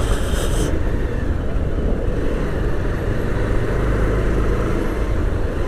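Motorcycle ride through city traffic: a steady rumble of engine and road noise on a bike-mounted action-camera mic. A brief high-pitched sound comes in the first second.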